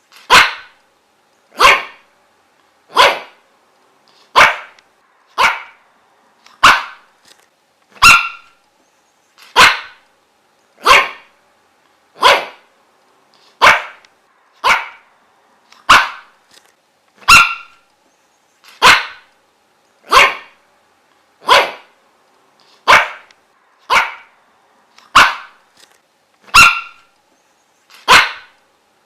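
A dog barking: single short barks, evenly spaced a little under one and a half seconds apart, with silence between them.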